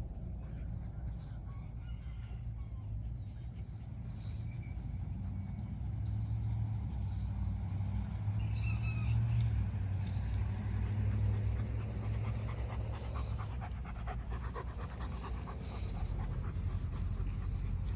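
A dog panting rapidly over a steady low rumble, with a few short high chirps in the first half.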